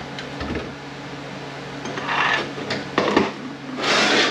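Metal transmission parts being handled and pulled apart: a few sharp clicks and knocks and two short scraping rasps over a steady low hum.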